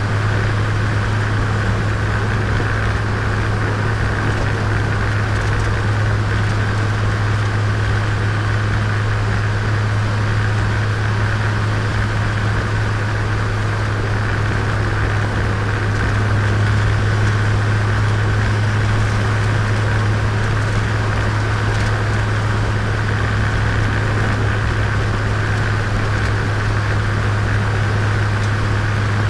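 Turbocharged Nissan Micra engine and road noise while driving at a steady speed, the engine holding an even drone with no change in revs. The engine is being run in after a rebuild.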